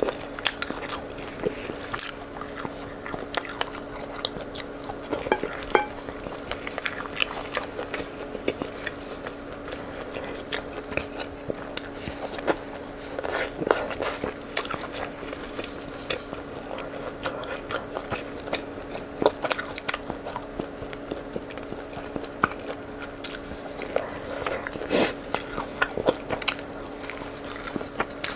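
Close-miked eating of a spicy rabbit leg: wet chewing and biting with many irregular sticky smacks and clicks as the oily meat is chewed and pulled apart by gloved hands. A steady hum runs underneath.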